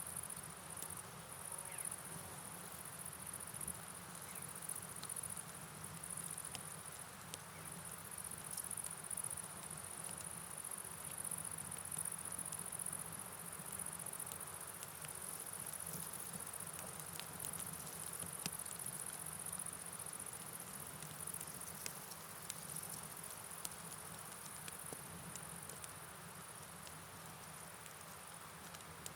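Steady, faint rain and river ambience: an even wash of rainfall and flowing water with a high, constant hiss and scattered light ticks of drops.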